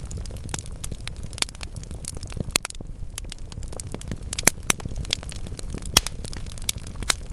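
Wood logs burning in a fireplace, crackling continuously over a low rumble, with sharper pops standing out about two and a half, four and a half and six seconds in.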